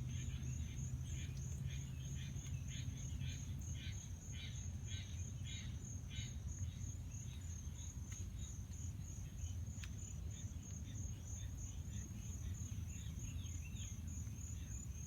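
Insects trilling steadily at a high pitch, a fast pulsing buzz, over a low rumble.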